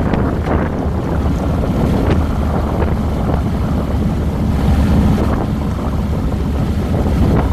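2007 Harley-Davidson Fat Boy's Twin Cam 96 V-twin running at riding speed, with wind buffeting the handlebar-mounted microphone. The rush gets louder for about a second in the middle.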